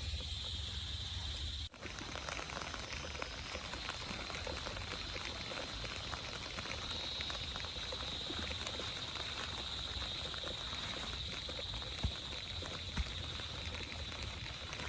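Steady rain with a dense patter of drops and a steady high hiss, broken by a short dropout about two seconds in; a few louder single drips or taps near the end.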